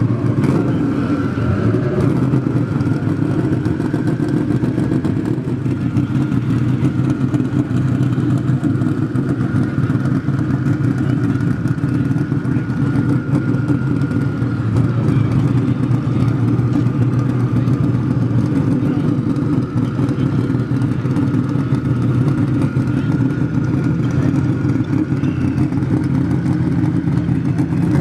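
Modified Ford Mustang drag car's engine idling loudly and steadily at the starting line, with a faint whine held above the exhaust note and no revving.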